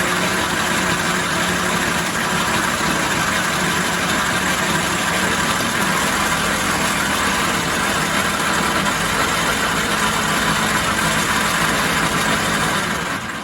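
1944 Logan 210 metal lathe running with its tool cutting the backing plate: a steady hiss of cutting over the machine's hum. It stops right at the end.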